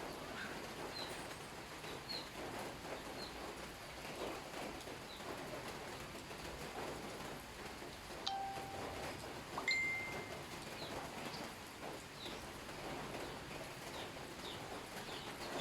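Small birds chirping, short high calls repeating about once a second, with two short ringing tones, one lower and one higher, a little past halfway.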